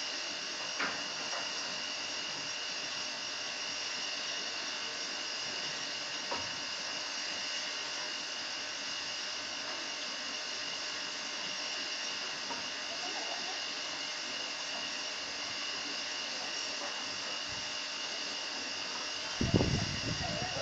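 Steady hiss with a faint whine, like a fan or appliance running. There are a couple of faint clicks, and a brief cluster of louder thumps near the end.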